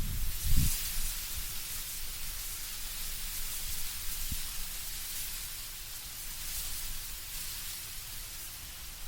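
Wind blowing through autumn trees, leaves rustling in a steady high hiss. A low gust rumbles in the first second, then dies down.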